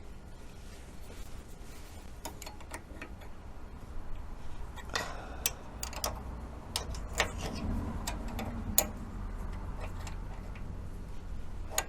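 Irregular small metallic clicks and taps of a wrench on the flare-nut fittings of an outboard power trim unit's hydraulic lines as they are tightened.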